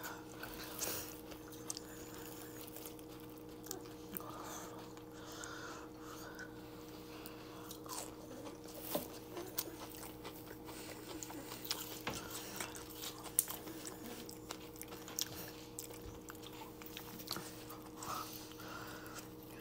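Close-up chewing of homemade fried onion rings, with scattered small crunches and mouth clicks. A faint steady hum runs underneath.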